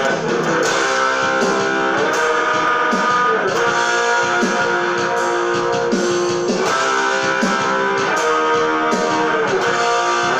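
Guitar music: plucked and strummed guitar notes ringing over one another at a steady level.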